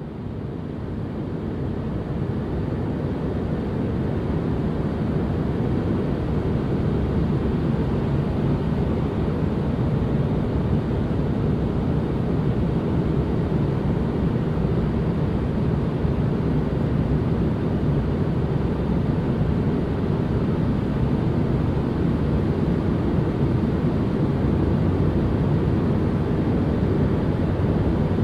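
Steady white-noise ambience, a deep, even rush with most of its weight in the low end, fading in over the first few seconds.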